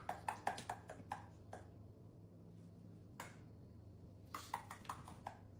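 Faint, irregular clicks and taps: a quick run of them at first, a single click about three seconds in, then another short run near the end.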